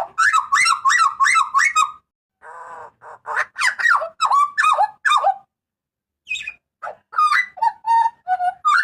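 Hooded butcherbird (jagal papua) calling loudly: rapid series of short, harsh notes that slide up and down, about four a second. The calls come in three bursts, broken by two short pauses.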